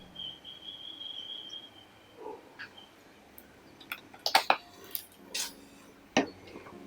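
Cooking utensils clinking and knocking against a pot and dishes, several sharp knocks about four to six seconds in. Before them a thin, high steady tone is heard for about two seconds.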